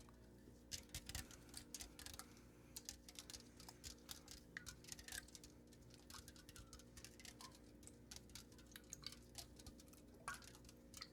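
Soft, irregular close-microphone clicks and taps, several a second, the kind made by ASMR tapping or mouth sounds, over a faint steady hum.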